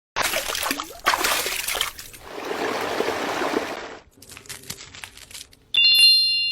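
Trickling and splashing liquid in a few short, separate bursts, with some crinkly ticking, then a bright ringing ding near the end that fades away.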